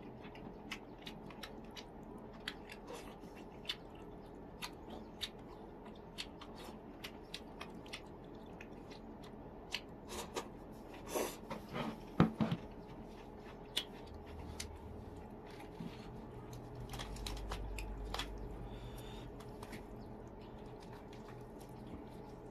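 A person chewing and eating steamed chicken close to the microphone: many small wet clicks and smacks, with a cluster of louder ones about ten to thirteen seconds in.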